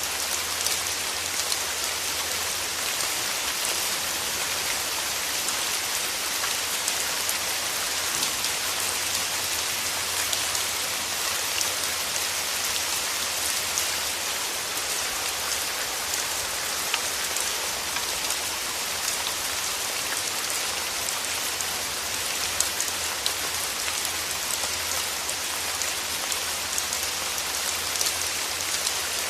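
Steady rain falling through trees: an even hiss full of fine drop ticks.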